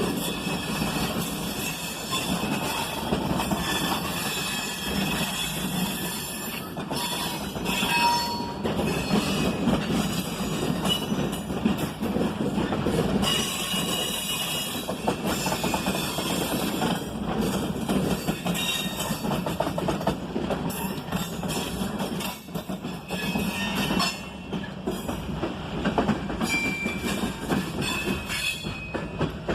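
Loaded side-dump ballast cars of a freight train rolling past, wheels clacking over the rail joints, with intermittent high-pitched wheel squeal.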